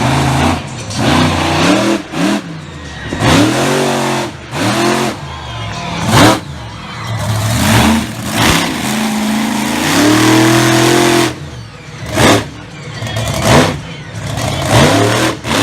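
Monster truck engine revving hard over and over, its pitch swelling up and falling back in quick surges, with a longer held rev about ten seconds in that drops away about a second later.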